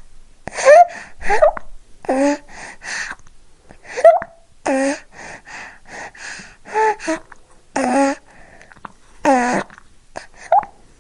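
Animal calling again and again: short, harsh calls that slide down in pitch, in quick runs of two or three with short pauses between.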